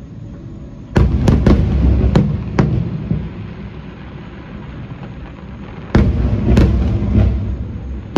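Fireworks bursting in two volleys about five seconds apart. Each volley opens with a deep boom and is followed by a few sharp cracks, with a low rumble carrying on between them.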